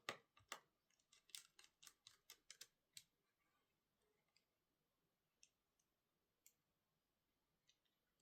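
Light, quick clicks and taps of small hand tools and laptop parts being handled, about a dozen in the first three seconds, then a few scattered ones.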